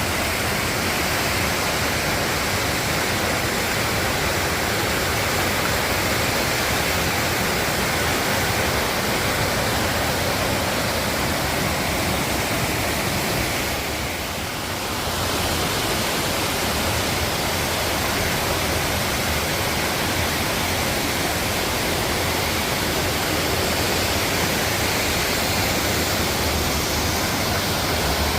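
Rushing water of a mountain valley stream or waterfall, a steady loud rush that dips slightly for a moment about halfway.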